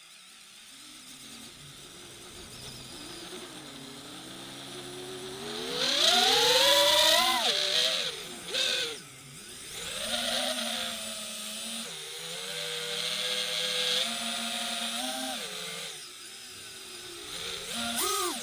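DJI drone's propellers and motors whining, the pitch rising and falling with the throttle. The whine climbs to its loudest about six seconds in, drops away sharply near nine seconds, and surges briefly again near the end.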